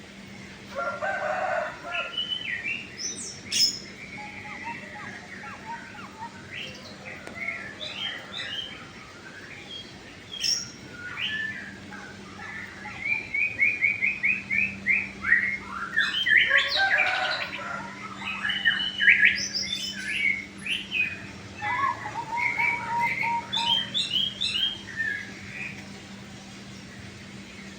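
Several small birds chirping and trilling in quick, overlapping phrases, over a steady low hum.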